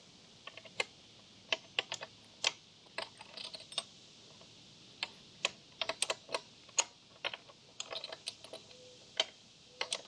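Irregular sharp metallic clicks and clinks of hand wrenches on the motorcycle's axle nuts, some single and some in quick clusters.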